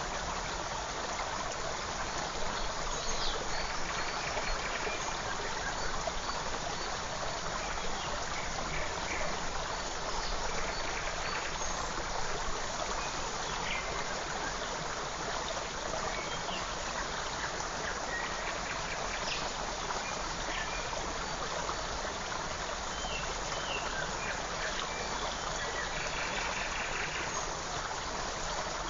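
Small forest stream flowing steadily, with short, faint bird chirps scattered through.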